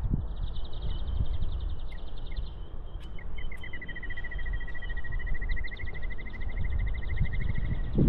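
Birds trilling: a fast, high trill in the first couple of seconds, then a longer, slightly lower trill of rapid, even notes lasting several seconds. Under it is a low, irregular rumble of footsteps on soft sand and wind on the microphone.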